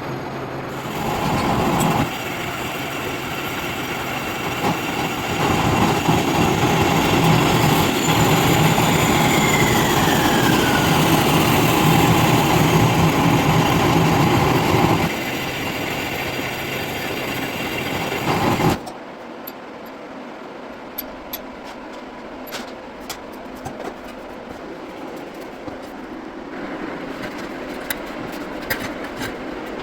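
Car engine running steadily, likely the Audi S8's 4.0 V8. It gets louder for several seconds while a whistle falls steadily in pitch, then cuts off suddenly about two-thirds of the way through, leaving a quieter background with scattered clicks.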